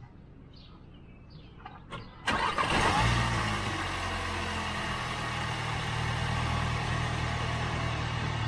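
The 2019 Volkswagen Jetta GLI's turbocharged 2.0-litre four-cylinder engine starting about two seconds in. It is loud at first, then settles into a steady idle.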